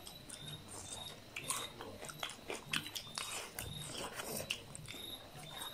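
Close-up chewing and eating sounds: wet mouth smacks and many short, irregular clicks as people chew food.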